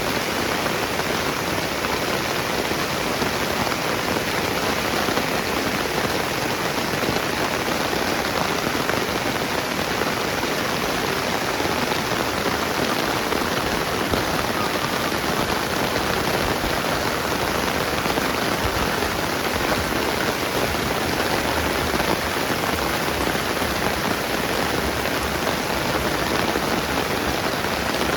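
Steady gentle rain falling on wet ground and surfaces: an even, unbroken patter.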